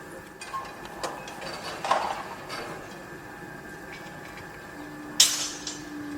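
Construction-site noise: a steady background din with separate metal clanks and knocks, some ringing briefly, the loudest a sharp bang about five seconds in. A low steady hum comes in shortly before that bang.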